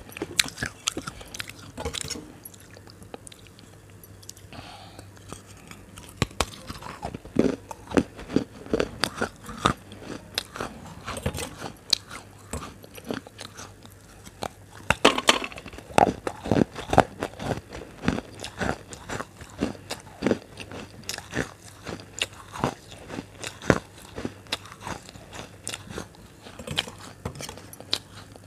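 A person biting and chewing crunchy food close to a clip-on microphone: a run of sharp crunches, sparse for the first few seconds, then coming thick and fast from about seven seconds in.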